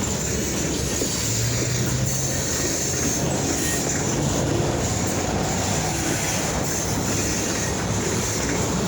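Freight train rolling past at close range: a steady, continuous rumble of steel wheels on the rails.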